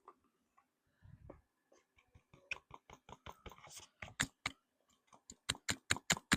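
A nearly empty lotion bottle being tapped and shaken to get the last of the lotion out: a run of sharp clicking taps, sparse at first, then coming about three or four a second in the second half, with a dull thump just after a second in.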